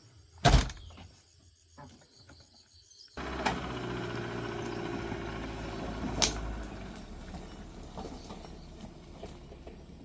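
A single loud thump about half a second in. About three seconds in, a steady mechanical hum cuts in suddenly, with another sharp thump partway through, and then slowly fades.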